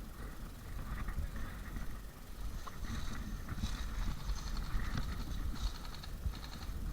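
Wind rumbling on the microphone, with several short bursts of fast, high-pitched rattling.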